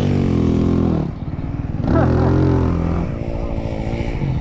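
Dirt bike engine running under throttle, backing off about a second in, then opening up again for about a second before easing off.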